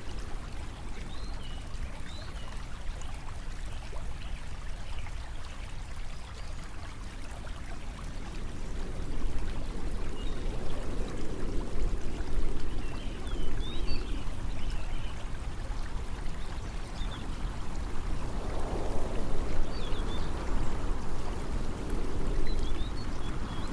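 Steady running-water ambience, like a flowing stream, over a low rumble, with swells of louder water noise in the second half.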